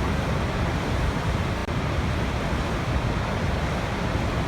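Waterfall pouring steadily, an even rush of falling water with a split-second dropout about one and a half seconds in.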